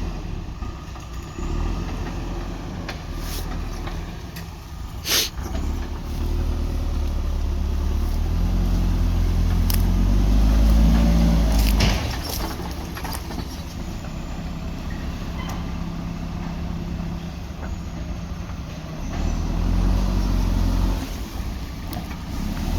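JCB 3DX backhoe loader's diesel engine running and revving up under load twice, the first time for several seconds before dropping back sharply, with a single sharp clank a few seconds in.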